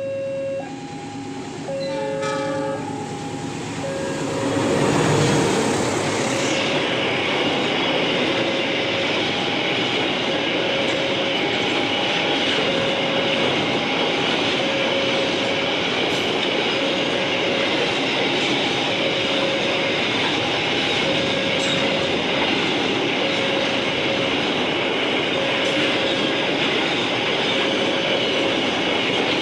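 A railway level-crossing alarm sounding its two alternating tones, about one a second, as a train arrives and passes. About four seconds in the train's running noise swells, with a falling pitch, and stays loud through the rest, nearly covering the alarm.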